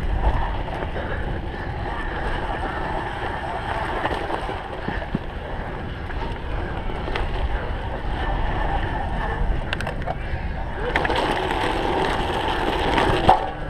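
Wind rushing over the microphone and the tyre noise of a cyclocross bike ridden hard over a dirt and grass course, with a louder, rougher stretch about eleven seconds in.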